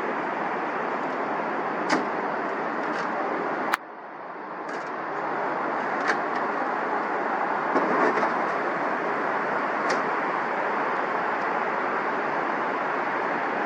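Airliner jet engines running as a steady noise, with a few faint clicks. About four seconds in it cuts off abruptly and swells back up over a second or two.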